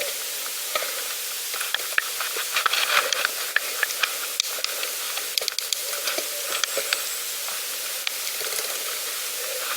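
Bicycle rolling along a path: a steady tyre hiss with many irregular small clicks and crackles.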